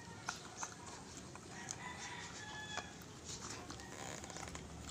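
A bird call held for about a second midway, with a few sharp clicks in the first second.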